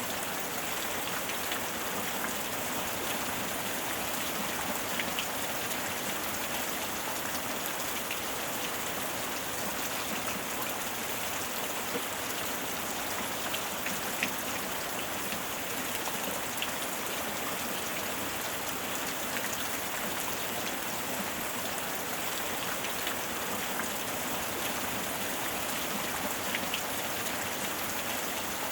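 Steady heavy rain falling, a constant hiss with scattered individual drops ticking on a surface.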